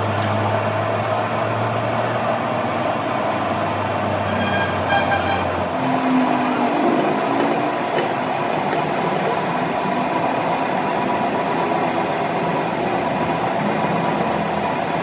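A steady mechanical running sound from an engine or machine, with steady tones throughout; its low hum shifts about six seconds in.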